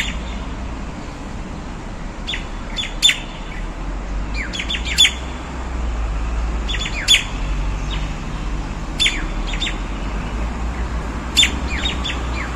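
A single bird giving short, sharp calls, clusters of one to three quick notes that sweep down in pitch, repeated about every two seconds, over a steady low rumble.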